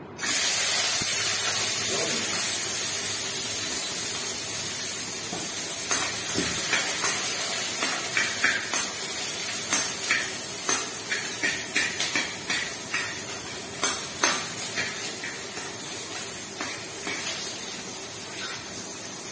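Chopped garlic dropped into hot cooking oil in a frying pan, bursting into a loud sizzle that starts suddenly and slowly dies down. Partway through, a utensil stirring against the pan adds a run of clicks and scrapes.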